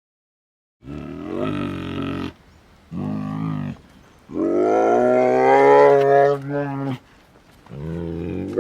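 A monster roar effect built from mixed animal calls: four pitched roars starting about a second in, the third the longest and loudest.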